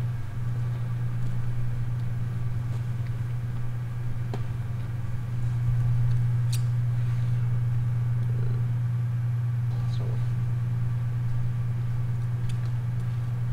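A steady low rumbling drone that swells slightly about halfway through, with a few faint clicks.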